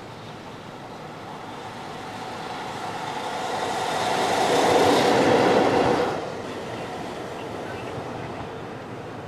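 A train passing at speed on the rails: the noise builds over a few seconds, peaks, and falls away sharply about six seconds in, leaving a lower rumble.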